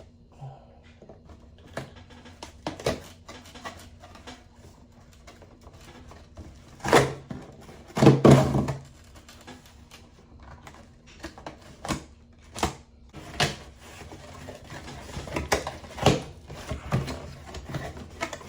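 A cardboard camera box and its packaging being handled and opened: irregular knocks, taps and scrapes, with two louder bursts about seven and eight seconds in.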